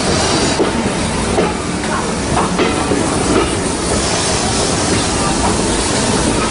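Heritage railway passenger train running along the line, heard from on board: a steady rumble and rattle of the carriage's wheels on the track.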